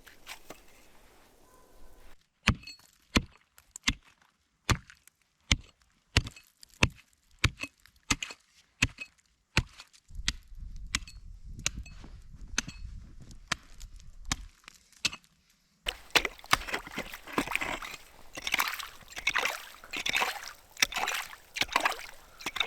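Axe chopping: sharp single blows at about two a second, then, from about two-thirds of the way in, a faster, denser run of chopping and scraping.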